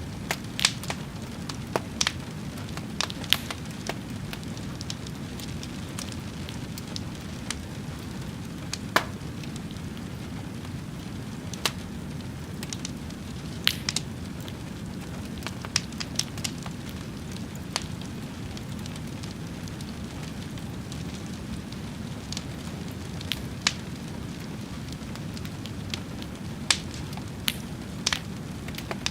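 Fire crackling, with irregular sharp pops every second or few over a steady low rushing sound.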